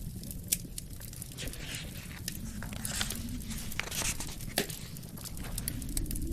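Wood fire crackling with irregular sharp pops, a louder pop about half a second in, over a low, steady rumble of wind.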